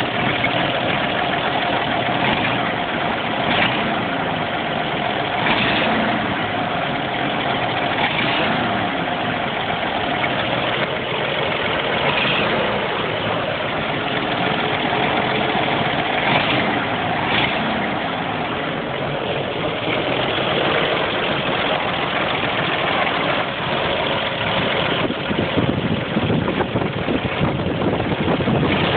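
GMC CCKW army truck's 270 straight-six gasoline engine running steadily at idle, with the knock that the owner is recording to show.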